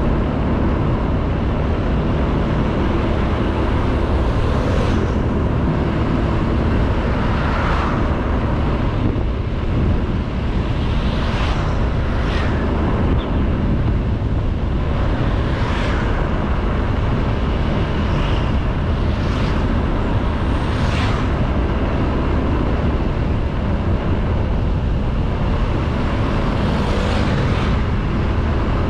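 Honda Beat 110cc single-cylinder scooter under way, heard from the rider's camera: steady engine, road and wind noise, with several brief hissing swells from other traffic going by.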